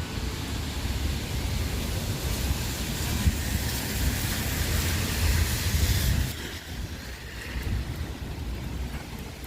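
Wind gusting and buffeting the microphone with a rushing hiss. The rush builds over the first six seconds, then drops off sharply.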